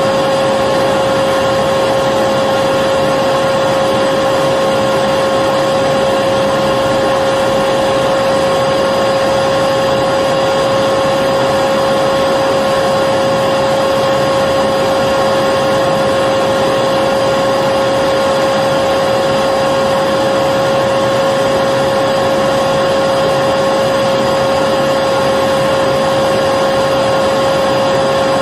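Electric vacuum cleaner running continuously at a steady speed: an even rushing of air with a constant high motor whine.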